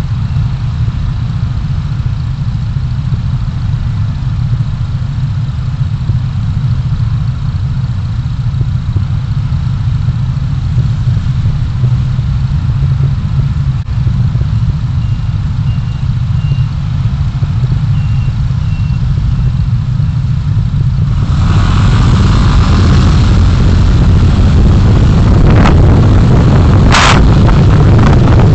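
A car driving, picked up by its dashcam: a steady low rumble of engine and road noise. About 21 seconds in it turns louder and hissier, and a few sharp knocks come near the end.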